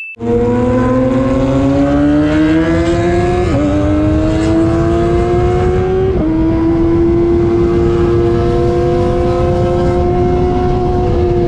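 Kawasaki ZX-25R's 250 cc inline-four with an aftermarket racing exhaust, accelerating through the gears: the engine pitch climbs, drops at an upshift a few seconds in, climbs again, drops at a second upshift about halfway, then holds steady at cruising speed. Wind noise runs underneath.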